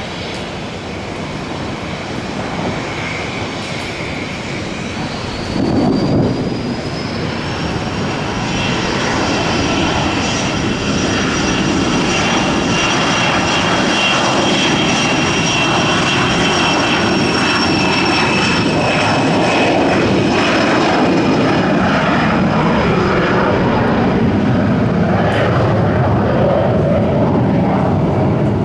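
Airliner jet engines running close by, a high whine rising about five seconds in and the sound growing louder and then holding steady. A brief loud low thud about six seconds in.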